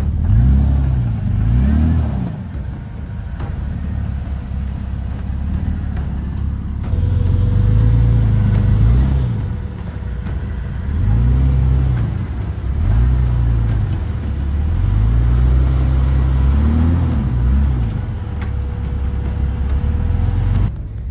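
Jeep Cherokee XJ's engine revving up and down again and again under load as it crawls up over a granite boulder, with a faint steady whine underneath through the middle.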